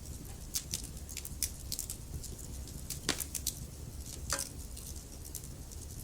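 Wood logs burning in a fireplace: irregular sharp crackles and pops over a steady low rumble of the fire, with louder pops about three seconds in and again about a second later.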